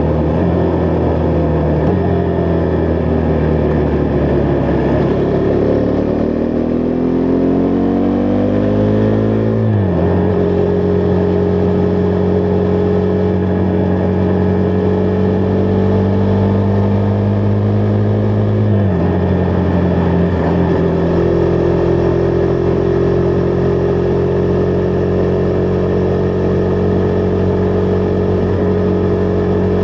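Husqvarna Vitpilen 401's single-cylinder engine pulling through the gears: the revs climb for several seconds, drop sharply at an upshift about a third of the way in, hold steady, then drop at a second upshift before settling into a steady cruise.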